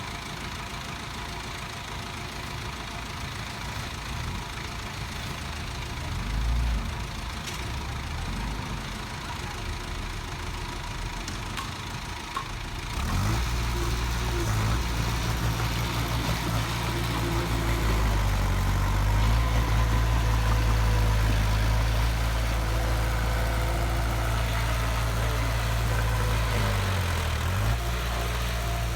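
Heavy diesel construction machine engine running with a steady low note, growing suddenly louder about halfway through and staying loud.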